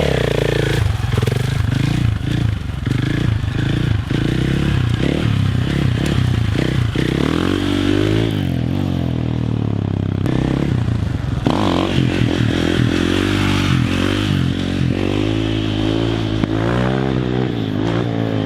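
Dirt bike engine revving up and down again and again as it is ridden, with some clattering and scraping.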